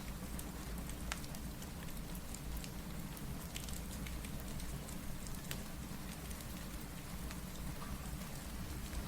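Steady rain with scattered sharp crackles of a wood fire over a low, even rumble.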